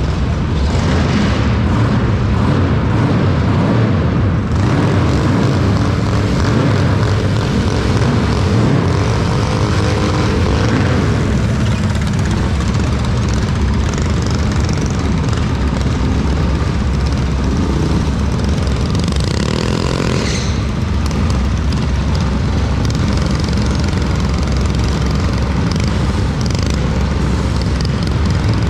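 Small single-cylinder minibike engines running and revving, a continuous buzzing engine noise whose pitch rises and falls.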